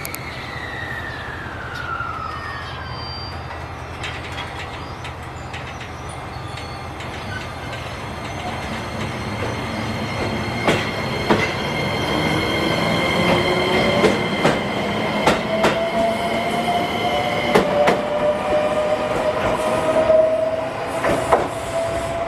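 Train moving through a station, growing louder about halfway through. Wheels click over rail joints and a squealing tone rises and holds. A falling whine is heard at the start.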